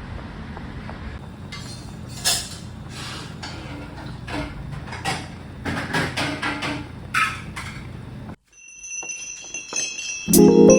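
Light clinking of tableware, a scatter of sharp ringing clicks over a steady low hum, with a short break about eight seconds in; music with bell-like mallet notes starts near the end.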